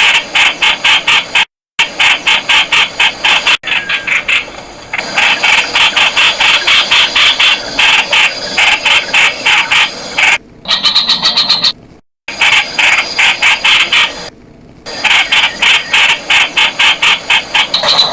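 Streak-eared Bulbul calling: a fast, continuous series of sharp, harsh notes at about five a second, broken by a few short pauses.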